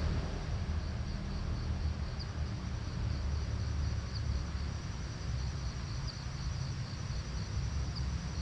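Insects chirring steadily in a high, fast-pulsing trill, over a low steady rumble.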